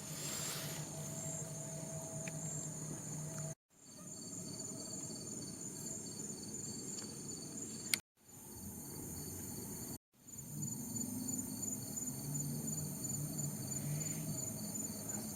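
Night insect chorus of crickets and katydids: a steady high trilling with a faster pulsing note beneath it. It breaks off briefly four times at edit cuts.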